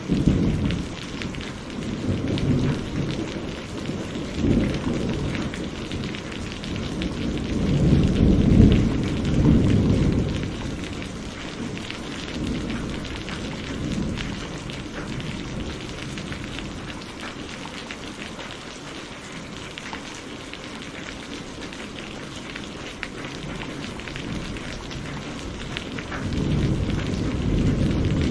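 Steady rain with rolling thunder: low rumbles at the start, a louder, longer roll about a third of the way in, and another building near the end.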